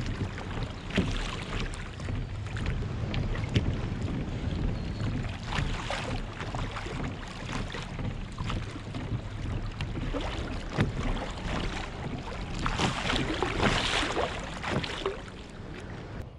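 Kayak being paddled across choppy water, splashes coming and going with the strokes, under steady wind rumbling on the microphone.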